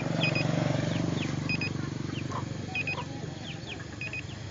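A steady low hum with a short double electronic beep repeating about every second and a quarter, and brief high chirps in between.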